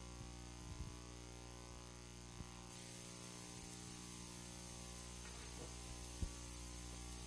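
Steady low electrical mains hum with faint hiss, broken by a few faint knocks.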